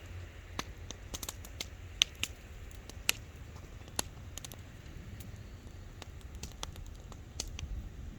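Wood bonfire crackling: irregular sharp pops and snaps, the loudest about two, three and four seconds in, over a low steady rumble.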